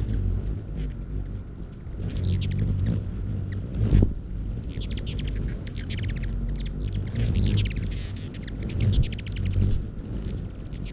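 Hummingbirds at a feeder giving high, squeaky chip notes and rapid chattering trills in several short bursts, over a low rumble, with a single thump about four seconds in.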